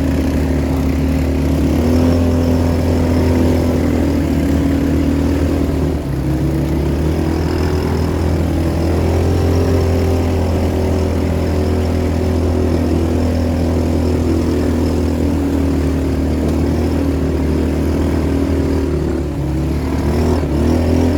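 Engine of an off-road adventure vehicle running steadily under way, its pitch shifting a little now and then as the throttle changes while it is driven into the river.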